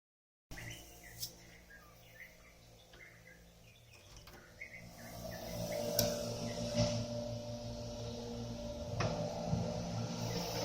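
Small birds chirping, then from about five seconds in a motor's low steady hum builds up and covers them, with a few sharp clicks.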